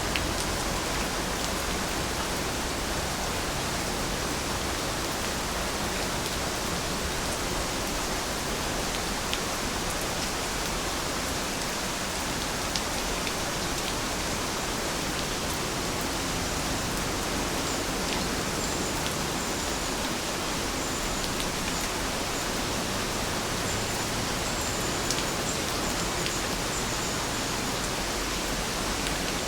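Steady rain, an even hiss with scattered sharper ticks of individual drops.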